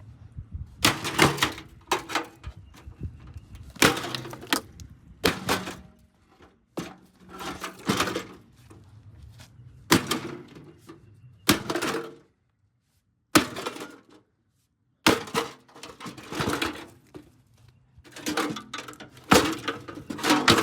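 Repeated hammer blows smashing into a Hamilton Beach microwave oven's metal housing and parts, each a sharp crash with a short ringing clatter. They come roughly once a second, some in quick pairs.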